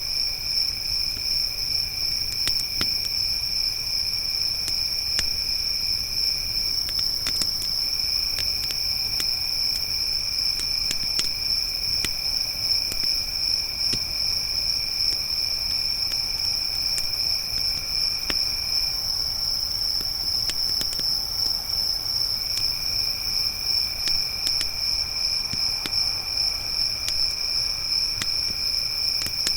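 Crickets chirping steadily in a high, continuous chorus, with a second, lower insect call that pauses twice. Sparse crackles and pops of a campfire are scattered through it.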